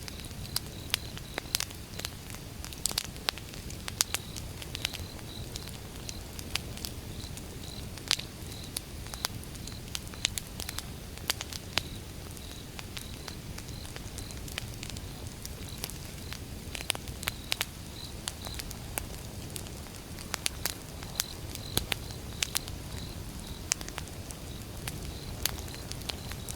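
Wood fire crackling, with irregular sharp pops and snaps over a low steady rumble of the burning logs.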